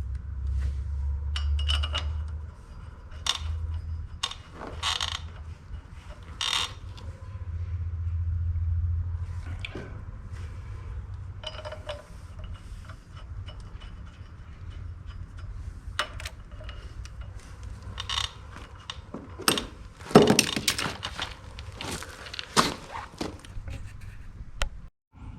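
Wrenches and steel bolts clinking and knocking against the iron flywheel adapter as the bolts are run in and tightened, scattered single clicks with a quick flurry of louder clanks about twenty seconds in.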